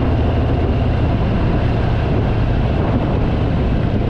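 Harley-Davidson Fat Boy V-twin engine running steadily at cruising speed, a low even drone under a constant rush of wind and road noise.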